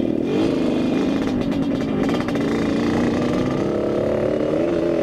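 Yamaha RX-King's single-cylinder two-stroke engine running under way at a fairly steady speed, its pitch rising and dipping slightly.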